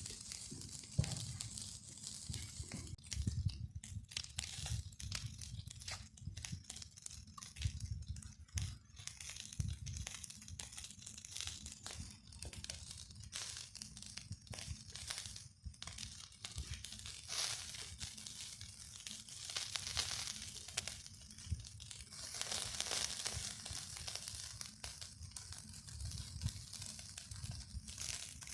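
Irregular crackling and rustling, a dense run of small sharp clicks, with a hissier rustling stretch about two-thirds of the way through.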